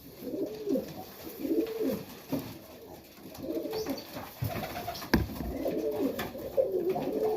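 Serbian highflyer pigeons cooing, one rising-and-falling coo after another, with a sharp knock about five seconds in.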